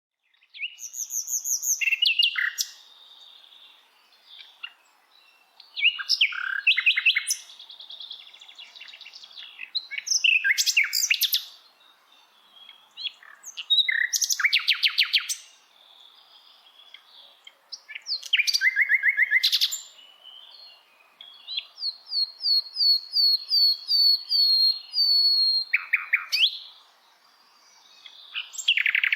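Songbirds singing: varied song phrases of fast trills and rapid repeated notes, each lasting one to five seconds, with short pauses between, over a faint steady background hiss.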